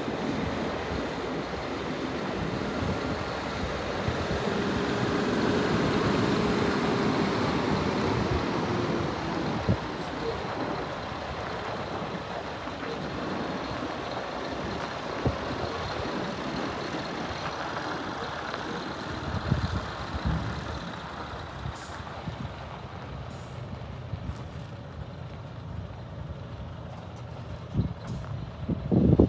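Scania R480 tipper truck running, a steady diesel engine note. It swells a little about five seconds in, with a faint whine that rises and falls, and there is a short loud burst near the end.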